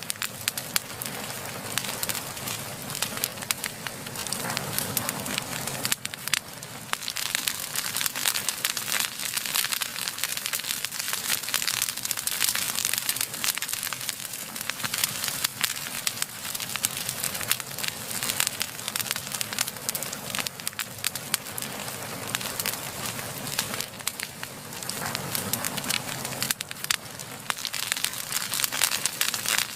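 Wood fire burning steadily, with dense, continuous crackling and popping over a soft hiss of flame.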